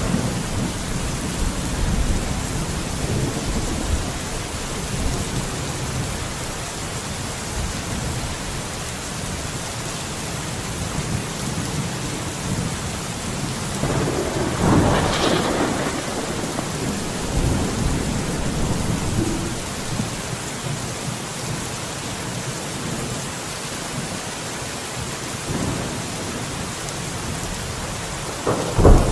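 Steady heavy rain with low, rolling thunder underneath. A louder, sharper thunderclap comes about halfway through, and another sudden crack near the end.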